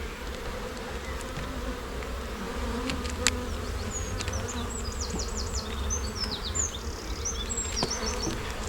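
Honey bees buzzing steadily around an open hive, with one sharp click about three seconds in.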